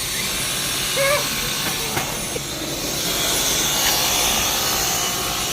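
A vacuum cleaner motor switches on and runs with a steady rushing airflow and a thin high whine.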